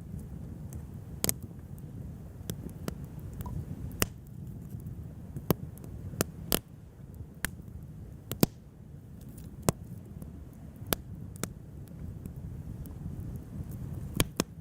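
Wood fire crackling: sharp, irregular pops and snaps, roughly one a second, over a steady low rumble.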